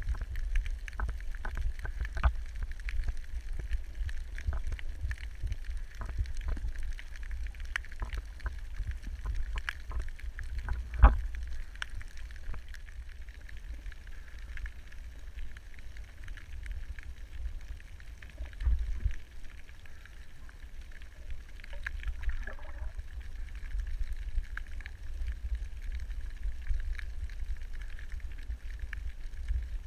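Underwater ambience picked up through a camera housing: a steady low rumble of moving water with many scattered clicks and crackles, a sharp knock about eleven seconds in and a couple of short louder swells later.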